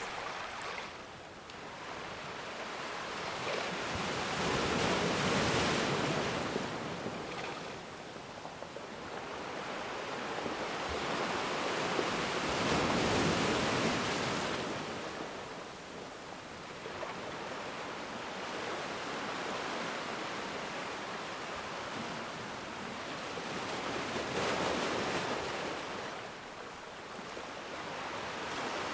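Ocean waves breaking and washing on the shore, the noise swelling and easing in slow surges, with the biggest swells about five, thirteen and twenty-five seconds in.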